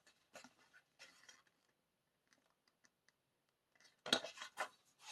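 Album packaging handled by hand: two short rustles, a few light clicks in the middle, then a louder rustle and clatter of paper and plastic near the end.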